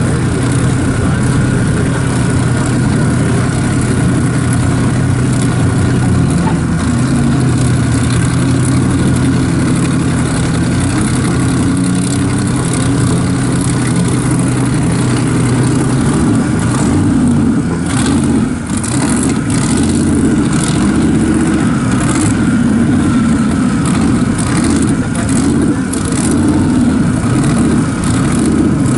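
Fox-body Ford Mustang drag car's engine idling at the starting line: a steady low drone for the first half, then a choppier, uneven run with short sharp cracks through the second half.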